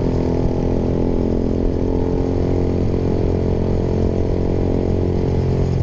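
Honda Sonic 150R's single-cylinder engine running through a Proliner TR1R Short aftermarket exhaust, held at a steady low throttle while riding, with the pitch staying nearly even.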